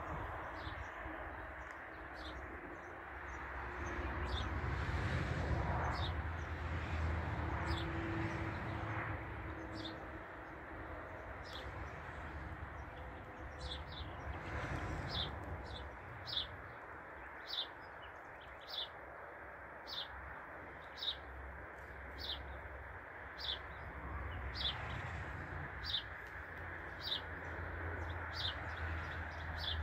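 A small bird chirping over and over, short high chirps coming about once a second and growing regular about ten seconds in, over a steady low outdoor rumble.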